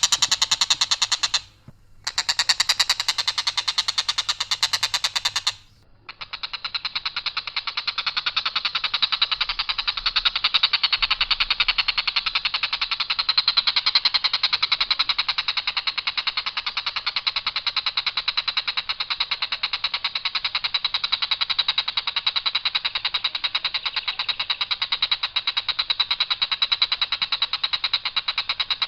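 Tengkek buto kingfisher calling: a long, harsh, very fast run of notes on one steady pitch, broken by two short pauses within the first six seconds and then running on without a break.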